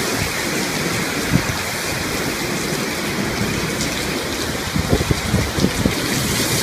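Heavy storm rain pouring steadily, a dense hiss of rain. About five seconds in, a few low thumps of wind gusting on the microphone.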